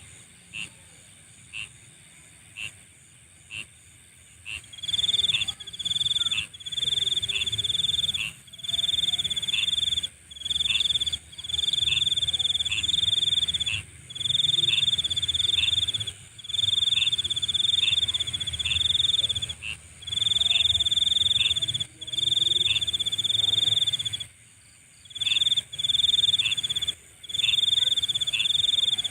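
Night insect chorus. A steady high-pitched drone runs under single chirps about once a second. From about four seconds in, loud trilled bursts of about a second each repeat with short gaps.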